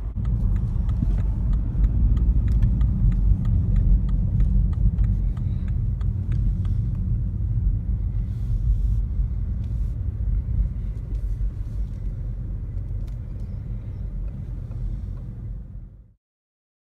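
Inside a moving BMW 1 Series: steady low rumble of engine and tyre noise on a bumpy country road, with faint scattered clicks and rattles. It cuts off suddenly near the end.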